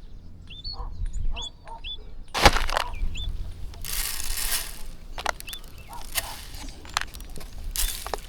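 A flock of birds feeding on scattered rice: repeated short rising chirps, broken by loud bursts of rustling and fluttering, with scattered pecking clicks.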